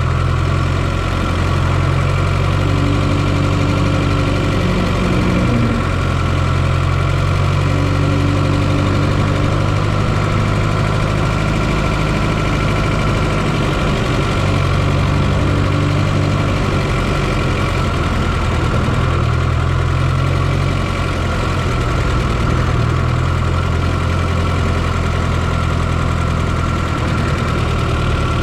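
1995 Fiat Coupé 2.0 16V turbo four-cylinder engine running steadily, heard up close from inside the engine bay, with a steady high whine over the low engine drone and no revving.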